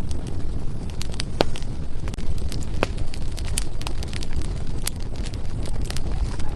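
Wood fire burning in a fireplace: a steady low rumble of the flames with irregular sharp crackles and pops of the burning firewood, a few louder snaps among them.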